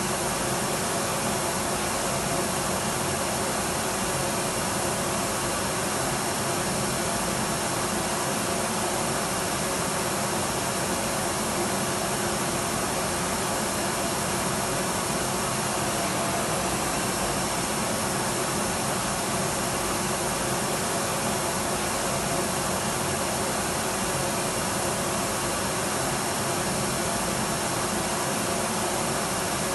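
Electric vacuum cleaner running steadily: an even, unbroken whoosh of air with a faint motor hum, unchanging throughout.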